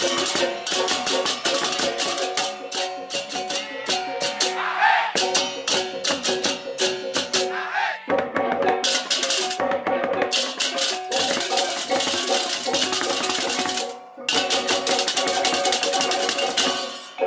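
Balinese gamelan music: fast, dense clashing of small cymbals over sustained ringing gong and metallophone tones, with brief breaks about five, eight and fourteen seconds in.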